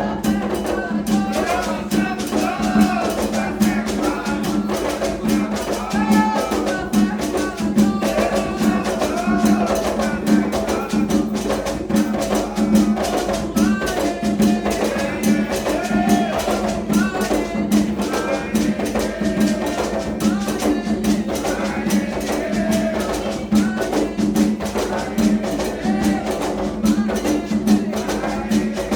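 Candomblé ritual music for Xangô: hand drums beating a steady, dense rhythm with a rattle, under group singing.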